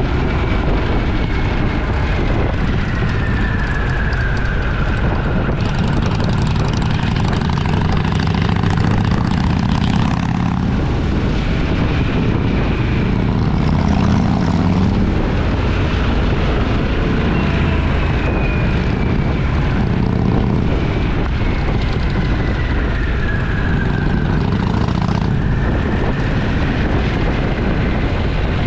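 Motorcycle engine running steadily under way, with a few faint whines that slowly fall in pitch.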